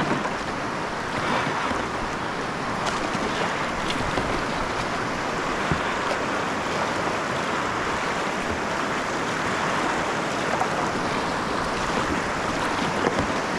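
Rushing river water, a steady wash of moving whitewater, with a few faint light knocks.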